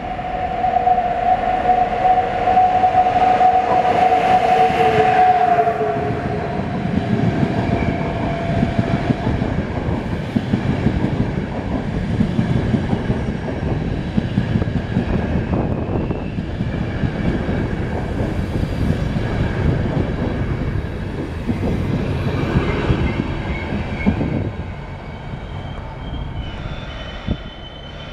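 An approaching ÖBB Taurus electric locomotive sounds a two-note horn held for about five seconds, dropping slightly in pitch as it ends. Then its EuroCity passenger coaches roll past close by with a steady rumble and wheel clatter, which fades over the last few seconds.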